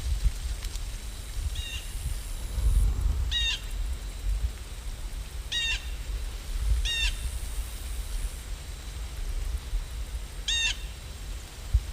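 A bird gives five short calls, spaced one to four seconds apart, over a steady low rumble of rain-and-wind ambience.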